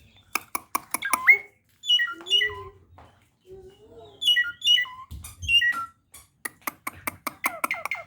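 A jalak (starling) calling: runs of sharp clicks mixed with short whistled notes that fall steeply in pitch, in groups of two or three, then a fast series of clicks near the end.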